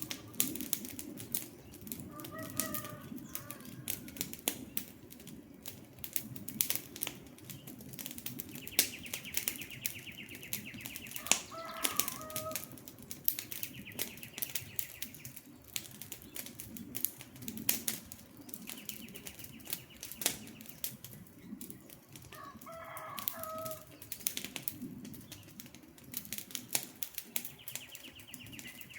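Wood campfire crackling and popping with many sharp snaps over a low, steady flame rumble. Three times, a bird gives a short pitched call, and a buzzy trill recurs several times in the background.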